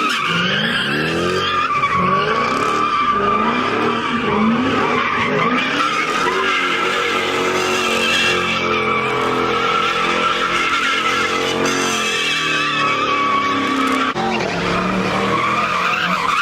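A car's tyres squealing continuously while the car spins donuts or drifts, its engine revving up and down over and over under the screech.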